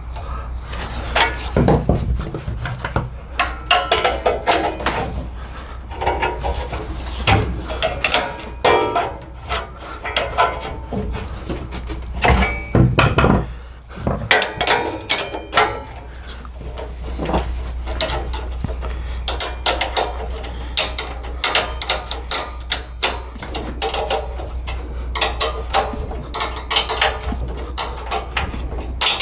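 Irregular clanks, knocks and rattles of hand tools and metal parts being handled while a brush guard is fitted to a lawn tractor, over a steady low hum.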